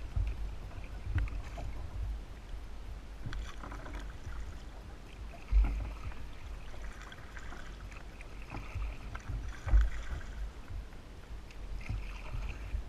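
Kayak being paddled, with the paddle splashing in the water every couple of seconds. A low rumble of wind or knocking runs on the microphone, with two heavier thumps, one about halfway through and one about three-quarters through.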